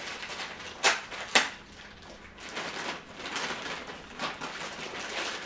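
Plastic wrapping crinkling and rustling as the unit is pulled out of it: two sharp crackles about half a second apart, a second or so in, then a longer stretch of uneven rustling.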